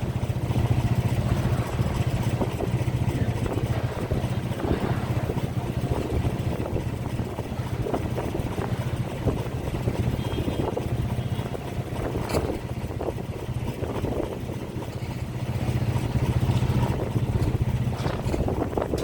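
A large engine running steadily, a low even drone with rough noise above it.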